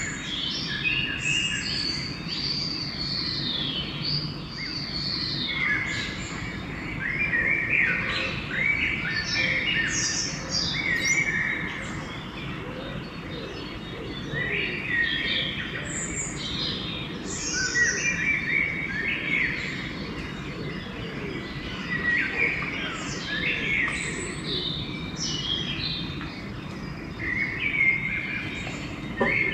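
A dawn chorus of songbirds: many birds singing at once, with short whistled phrases and chirps overlapping continuously over a steady low background rumble.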